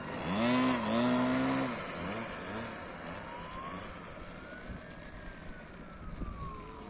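Distant RC airplane nitro glow engine (OS 55) whining in flight, its pitch rising then falling as the plane flies past. A louder drawn-out pitched sound stands over it in the first second and a half.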